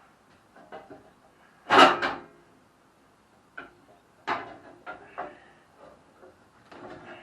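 Knocks and clunks of parts being handled and set down during assembly work, the loudest a double clunk about two seconds in, then a few lighter knocks.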